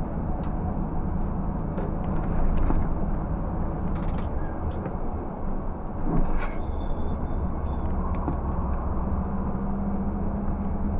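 Scania 360 truck's diesel engine pulling steadily under load up a grade, with scattered clicks and rattles; the engine note dips briefly a little past halfway and then picks up again.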